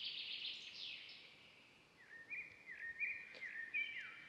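Songbirds singing: a fast trill that fades out about a second in, then a bird repeating short chirping notes, each rising and falling, over the second half.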